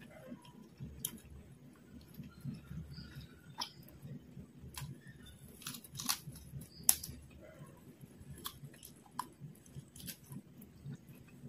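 Close-miked chewing of fried quail, with a steady rhythmic chew and many short sharp clicks and snaps from the mouth and the meat being pulled apart by hand; the loudest click comes about seven seconds in.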